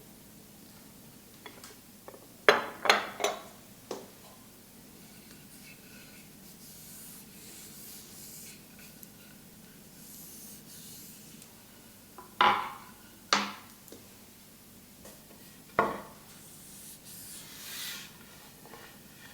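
Scattered knocks and clinks of objects being handled and set down, a quick cluster of three or four about two and a half seconds in and three more single ones later, with soft rubbing and rustling between.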